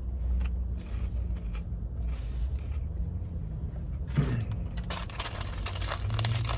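A steady low rumble, with a stretch of rustling from about four seconds in.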